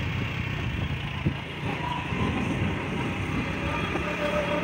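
A train running on the rails: a steady low rumble, with faint held tones coming in near the end.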